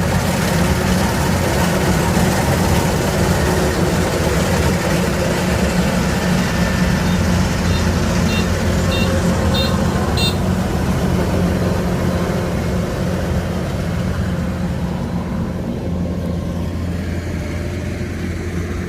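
Rice combine harvester's engine running steadily under load, easing off and fading a little near the end. A few short high ticks sound about halfway through.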